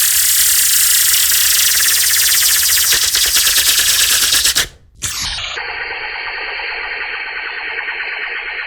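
Beatboxed 'laser' sound effect made with the mouth: a loud, hissy buzz with a fine rapid pulsing, about four and a half seconds long. After a brief break it returns, drops steeply in pitch and carries on lower and duller, as the slow-motion replay stretches it.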